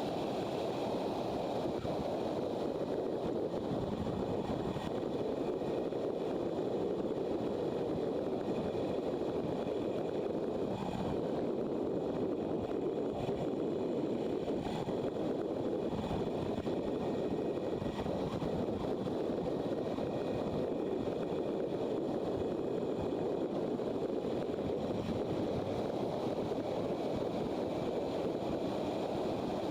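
Motorcycle riding at a steady pace: a constant rush of wind noise over the microphone, with engine and road noise underneath.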